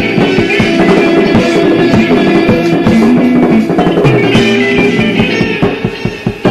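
Live improvised rock band playing: electric guitar and bass holding sustained notes over a steadily hit drum kit, recorded raw without a sound check.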